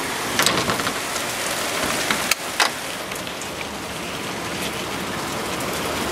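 Heavy rain shower pouring down steadily: a dense, even hiss of rain hitting the ground. A few sharp clicks and knocks come in the first three seconds.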